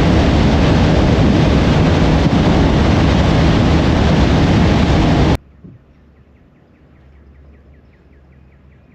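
A boat running fast across open water, with wind buffeting the microphone as a loud, steady rushing noise heaviest in the low end. It cuts off abruptly about five seconds in, leaving faint bird chirps.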